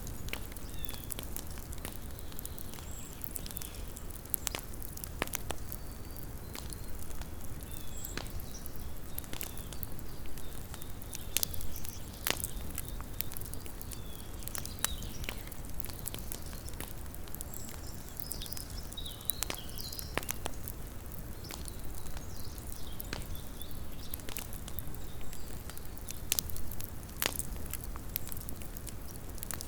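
Small wood campfire crackling: irregular sharp pops and snaps scattered at random over a steady low background noise.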